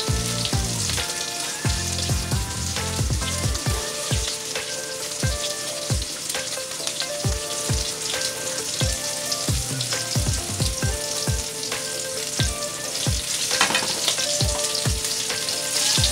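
Breaded shrimp frying in hot oil in a pan, a steady sizzle, under background music with a steady beat.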